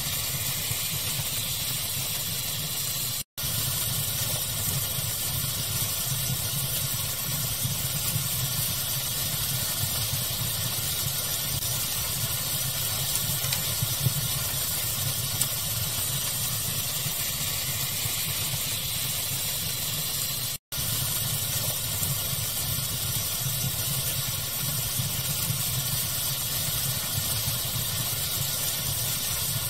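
Steady pink-noise hiss with a fire crackling under it in occasional small pops. The sound cuts out completely for an instant twice, about three seconds in and again about twenty seconds in.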